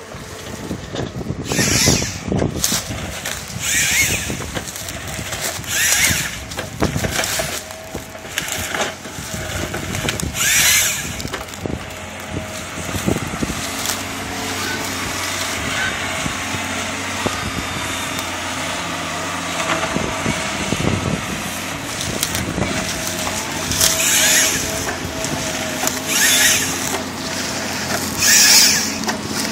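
Vicort 240 cutting machine running through eucalyptus wood: a steady running hum, with a short loud cut about every two seconds in a run near the start and another near the end.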